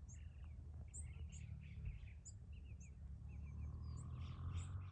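Small birds chirping and twittering in short, quick calls, over a steady low rumble; a faint hum rises in the last second.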